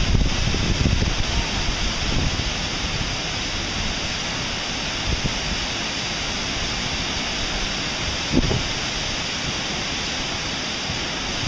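Steady rushing of a waterfall. Wind buffets the microphone in the first couple of seconds, and there is a brief low thump about eight and a half seconds in.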